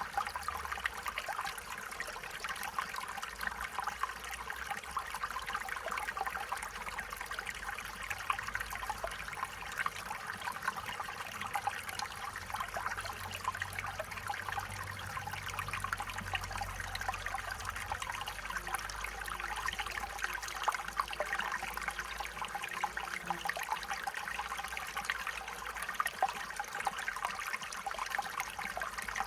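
Small stream flowing and trickling steadily over stones, a continuous bubbling splash.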